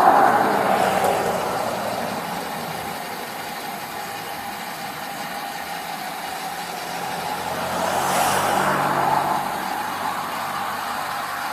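Cars passing on a roadside highway: one vehicle's tyre and engine noise fades away at the start, and another approaches and passes about eight seconds in. A faint steady low hum runs underneath.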